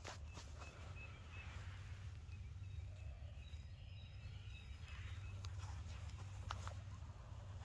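Faint bird calls: a few short high chirps and thin, faint whistled notes, over a steady low rumble. A couple of sharp clicks come in the second half.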